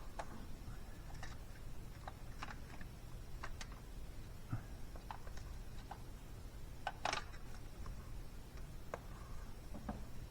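Scattered light clicks and taps, with a louder clatter about seven seconds in, over a low steady hum.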